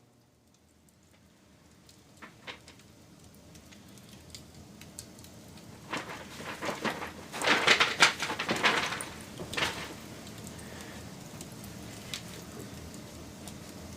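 Wood fire crackling, fading in from near quiet, with a dense run of sharp pops and snaps about halfway through, then a steady hiss with an occasional pop.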